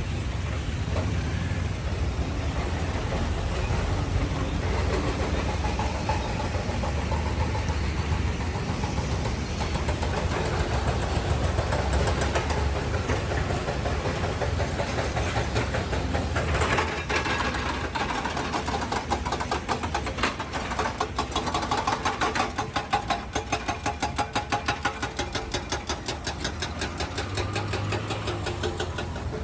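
Motor vehicle engines running in slow traffic, a steady low rumble. About halfway through, a rapid, even chugging from one engine comes in and grows louder.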